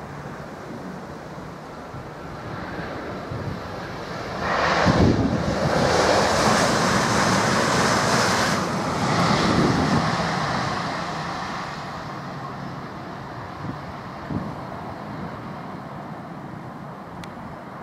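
Southeastern Class 395 Javelin high-speed electric train passing at speed. The rush of wheels and air builds over a few seconds, stays loudest for about five seconds, then fades away, over steady wind noise on the microphone.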